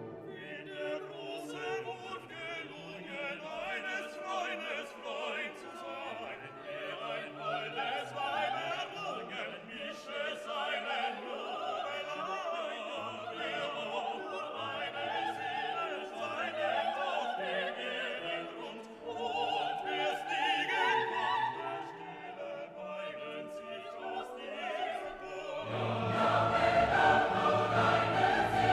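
Classical vocal music: operatic singing with orchestra, growing louder and fuller near the end.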